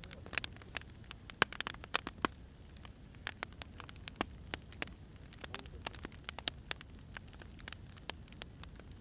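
Firewood burning: irregular sharp pops and crackles, several a second, over a low steady rumble of the fire.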